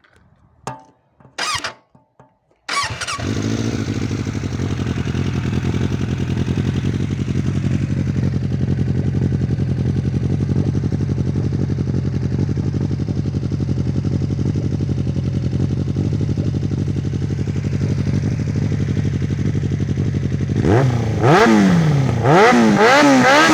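Suzuki GSX600F inline-four motorcycle engine with an Akrapovic exhaust. After a couple of short clicks and a brief whir, it starts about three seconds in and idles steadily. Near the end it is revved in several quick blips, pitch rising and falling with each one.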